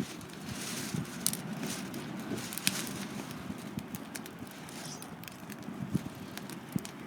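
Wood campfire burning, with irregular sharp crackles and pops over a steady low rush.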